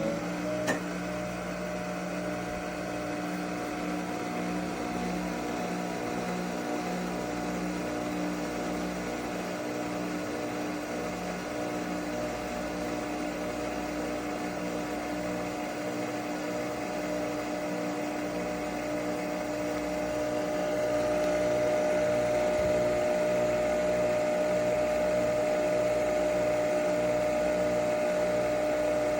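Nespresso Vertuo Pop+ coffee machine brewing: a steady mechanical hum with a regular pulsing underneath. It grows louder, with a brighter tone, about twenty seconds in.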